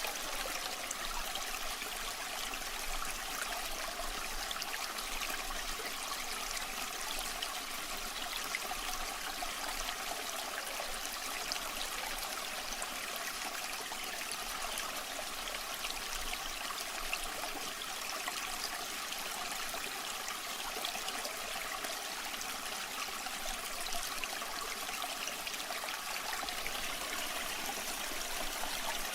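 Waterfall water running steadily: an even, unbroken rush of falling water with little deep rumble.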